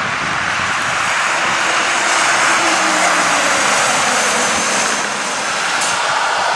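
Fire engine's diesel engine running hard as the truck pulls out on a call, heard as a loud, steady rushing engine noise.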